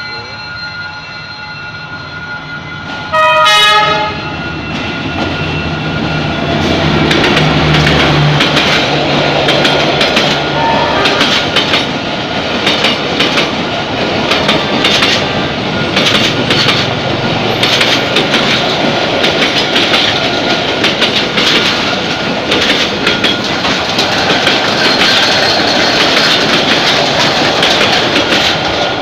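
Diesel train passing. A short horn blast sounds about three seconds in, then the locomotive's engine rumbles by, followed by a long, steady clickety-clack of wheels over rail joints as the carriages go past.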